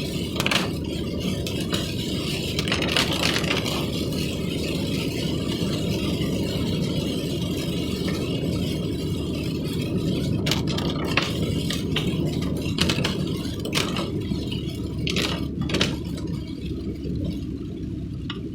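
Steady running noise of a moving vehicle, with frequent short rattles and knocks scattered through it.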